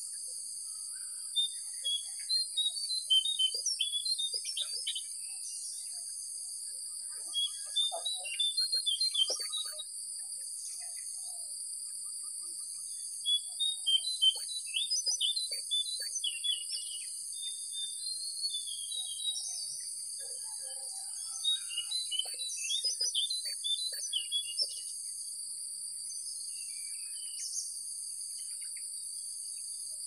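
Wild birds singing in four bouts of quick chirping notes, each a few seconds long with short gaps between, over a steady high insect buzz that pulses evenly.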